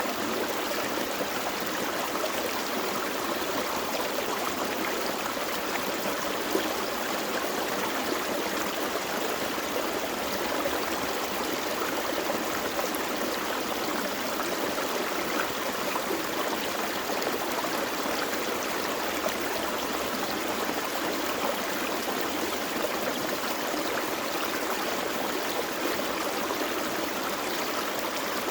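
A gentle forest creek running over rocks, a steady babbling and trickling of water.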